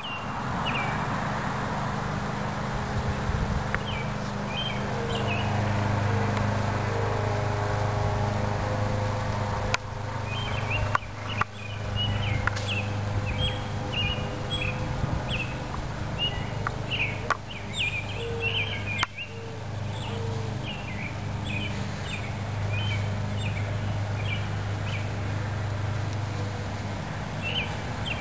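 Birds chirping in short, quick calls, thickest from about twelve to twenty-two seconds in, over a steady low hum.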